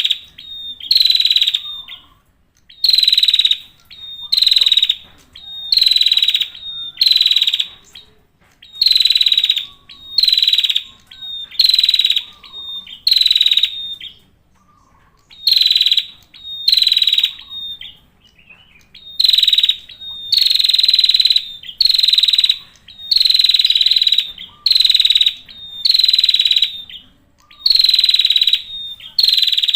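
Male prinia (prenjak) singing hard: a loud, high song burst repeated about once a second, with a few slightly longer pauses between bursts.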